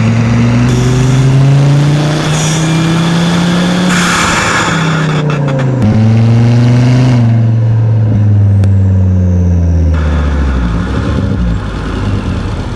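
Volvo XC70's turbocharged five-cylinder engine, its muffler cut out, running loud through the open exhaust. The revs are held high and climb slowly, drop sharply about six seconds in, rise again, then fall back to idle near the end.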